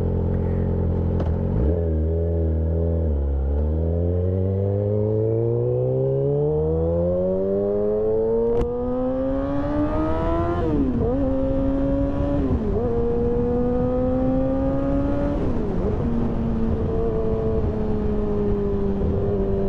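2008 Yamaha R6's inline-four engine, breathing through a stainless full exhaust system and SC Project muffler, accelerating: its note climbs steadily for several seconds, then drops with an upshift about ten seconds in. Two more upshifts follow, and the note settles into a steady cruise near the end.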